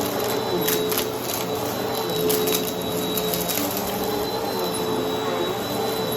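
Vacuum cleaner running steadily with its brushroll spinning, a constant motor whine and rush of air, with scattered sharp clicks and crackles of debris being picked up.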